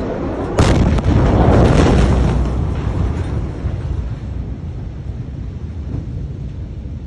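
A large explosion's blast reaching the microphone: a sudden sharp boom about half a second in, then a deep rumble that fades over the next few seconds, with wind buffeting the microphone.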